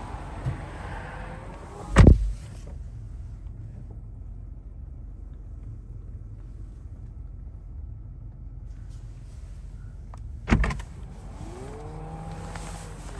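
2023 BMW 760i xDrive's door shuts with a heavy thud about two seconds in, and the outside noise drops to a hushed, sealed cabin. Near the end another thud comes as the door opens and the outside noise returns. A short electric motor whine follows, rising in pitch.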